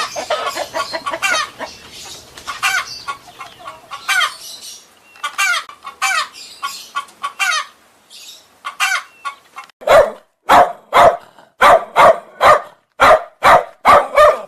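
Chickens clucking in a quick, chattering run of short calls. About ten seconds in, this gives way to a series of about ten loud, short calls at roughly two a second.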